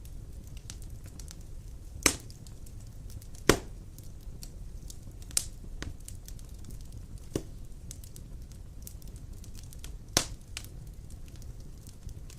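Large logs burning in a fireplace: a steady low rumble of flames with faint crackling throughout and five sharp pops of the wood, spaced a few seconds apart.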